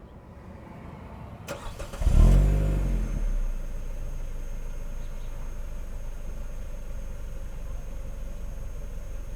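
Car engine starting, recorded at the exhaust by a microphone inside the rear bumper. The starter cranks briefly about one and a half seconds in, the engine catches with a short flare of revs, then settles to a steady idle.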